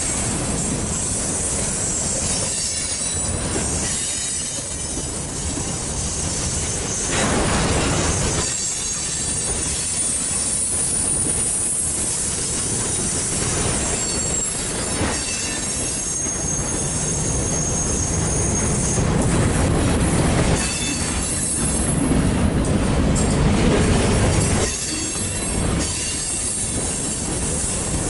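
Covered hopper cars of a grain train rolling past close by: a steady rumble of steel wheels on rail with clacking over the joints and thin, high-pitched wheel squeal coming and going. The sound swells louder for a moment about a quarter of the way in and again for several seconds after the middle.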